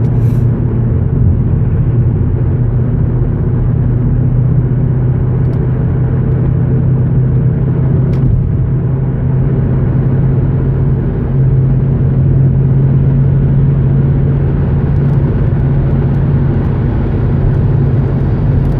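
Steady drone of a car on the move, engine and tyre noise heard from inside the cabin.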